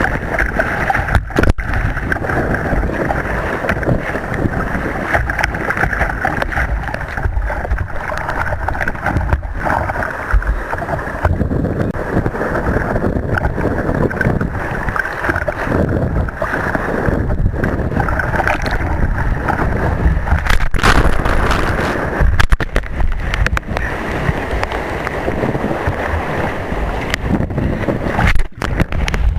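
Sea water rushing, gurgling and splashing around a surf kayak in the waves, with wind buffeting the microphone.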